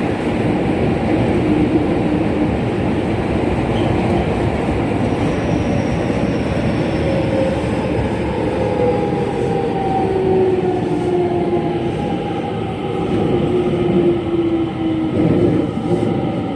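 Running sound inside a JR West 207 series electric train fitted with its original-pitch traction motors: a steady rumble of wheels on rail with motor tones that slowly fall in pitch as the train slows.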